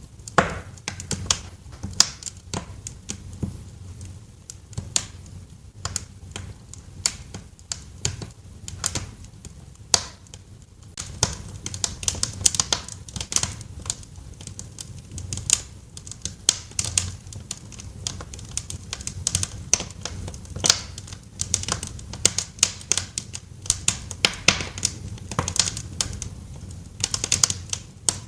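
Wood fire in a fireplace crackling, with irregular sharp pops and snaps over a low steady rumble. The crackling grows busier about a third of the way in.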